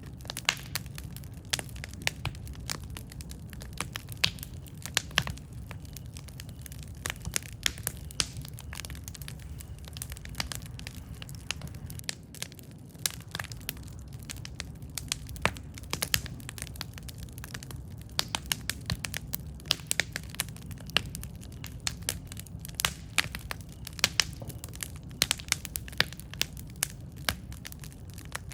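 Campfire burning: wood crackling with frequent sharp, irregular pops over a steady low rumble of the flames.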